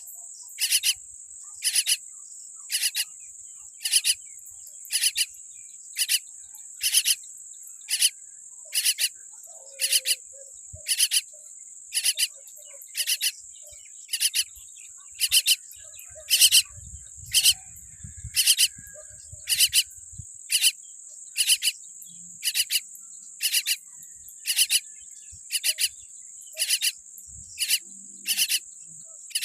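Insects trilling steadily at a high pitch, with a short raspy pulse that repeats about once a second.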